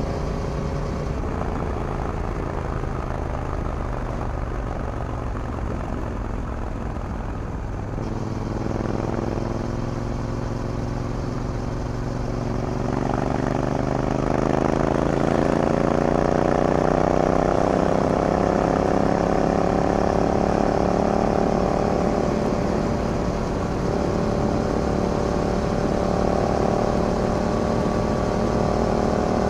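Yamaha MT-07's parallel-twin engine through an Akrapovic carbon full-system exhaust, heard from the saddle. It runs at a steady cruise, then climbs in pitch and gets louder as the bike accelerates from about a quarter of the way in, and holds a steady higher note for the second half.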